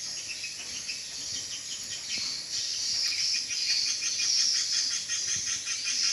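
Swiftlets twittering: a dense, continuous chorus of high chirps with rapid clicking trills, the kind of swiftlet call sound used to lure swiftlets to a nesting house.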